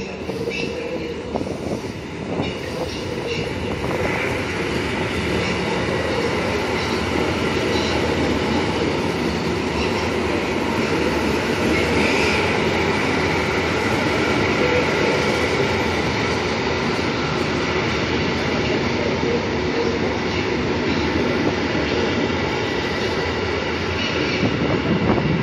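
Regional electric multiple unit passing close along the platform track: a steady rumble of wheels on rail that grows louder about four seconds in and holds, with some clacking over rail joints.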